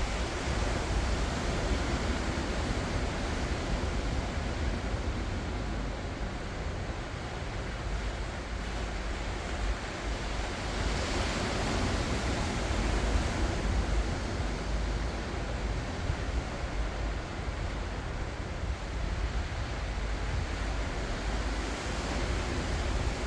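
Ocean waves breaking and washing on the shore, a steady rush with a swell of a louder wave about halfway through, and a low rumble of wind on the microphone.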